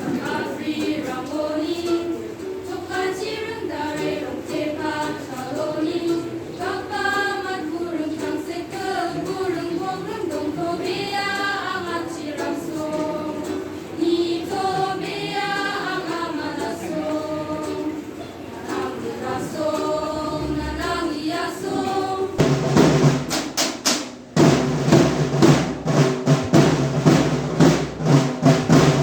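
Voices singing a slow melodic song; about 22 seconds in, the singing gives way to loud, fast drumming.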